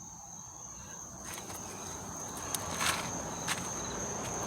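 Crickets chirring in a steady high drone, with a few scuffs and short clicks coming in from about a second in.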